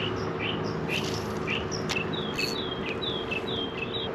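Bird calling repeatedly outdoors, first short chirps about twice a second, then a run of downslurred whistled notes in the second half, over a steady low hum.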